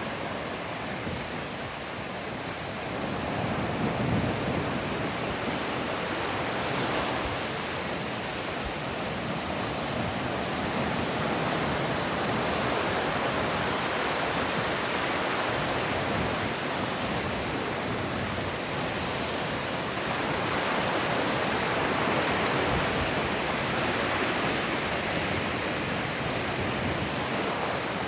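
Ocean surf washing onto a sandy beach: a continuous rushing wash that swells and eases every few seconds as waves break and run up.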